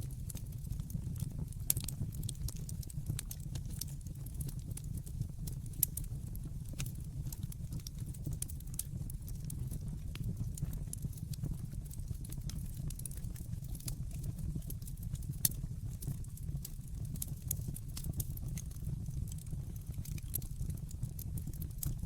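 Wood fire crackling with dense small clicks and a few louder pops, over a low steady rumble.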